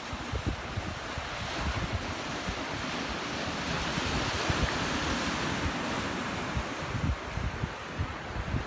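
Ocean surf on a beach: a broad rush of breaking water that swells over a few seconds and eases off again, with wind buffeting the microphone in uneven low gusts.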